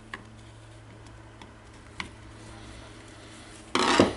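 A few light clicks of parts and a screwdriver being handled while wires are pressed into a power-tool handle, over a steady low hum. Near the end comes a short, loud burst of scraping handling noise.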